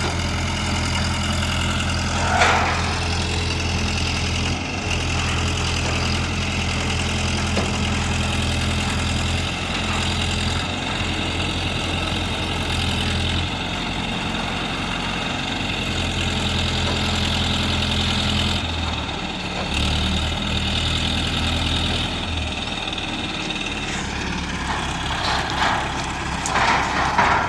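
Heavy engine of a crane idling steadily, its low hum turning uneven about two-thirds of the way through. A brief knock about two seconds in, and a few more knocks near the end.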